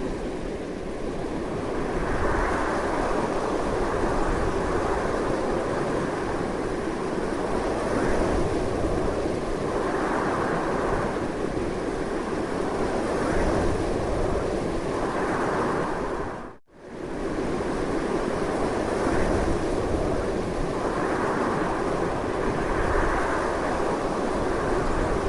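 Strong, steady wind blowing, swelling in soft gusts every few seconds. The sound drops out for an instant about two-thirds of the way through, then carries on.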